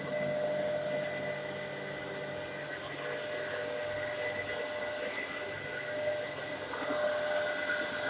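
Dyson DC07 upright vacuum cleaner running steadily with a high motor whine. Short bursts of hiss come and go over it, and there is a sharp knock about a second in.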